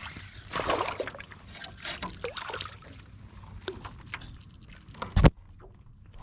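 Water splashing beside a kayak, with scattered clicks and a sharp knock on the boat about five seconds in, the loudest sound.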